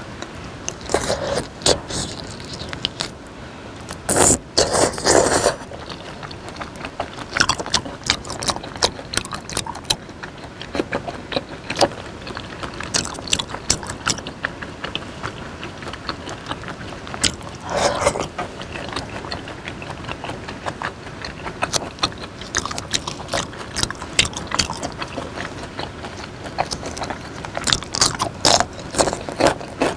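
Close-miked wet chewing and lip smacking as raw beef slices dipped in chili sauce are eaten, a quick run of sticky clicks with a few louder bursts. Near the end a fresh green vegetable stalk is bitten and chewed.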